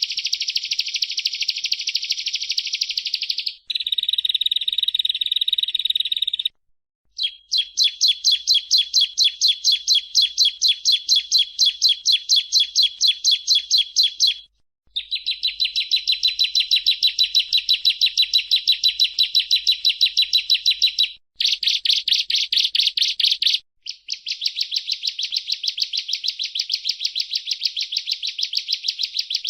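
Bar-winged prinia (ciblek) singing: long, fast runs of sharp, repeated high chirps, about five a second. The runs are broken by short pauses near 4, 7, 15, 21 and 24 seconds in.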